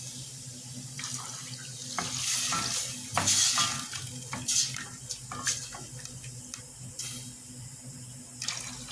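A pot of chicken in coconut milk being stirred: liquid sloshing, with scattered clinks of the utensil against the pot over a steady low hum.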